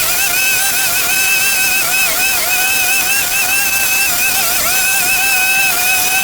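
Small gasoline engine of a handheld garden power tool running at high speed with a high whine, its pitch dipping briefly again and again.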